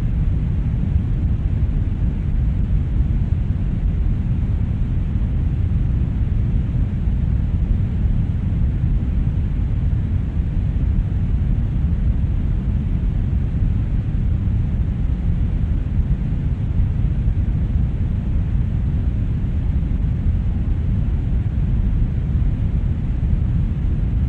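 Brown noise: a steady, unchanging deep rushing hiss, its energy heaviest in the bass and thinning toward the treble.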